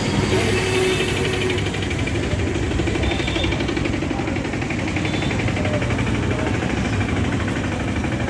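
An engine running steadily with a rapid, even knocking rhythm.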